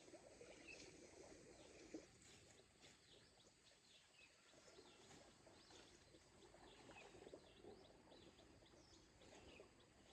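Faint outdoor ambience: small birds chirping in quick, short notes over a low rustling noise.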